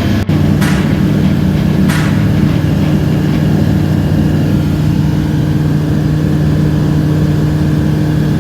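Rotax 912 100 hp four-cylinder boxer aero engine and propeller of a light aircraft running at a steady, unchanging drone in flight, with a momentary break just after the start.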